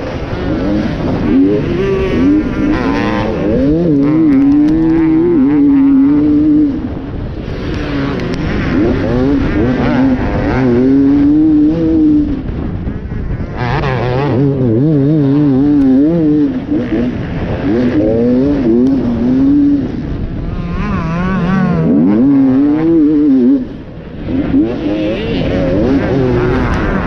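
Enduro dirt bike engine revving hard and dropping back again and again under constant throttle changes as it is ridden over rough ground. The revs fall off briefly a few seconds before the end, then pick up again.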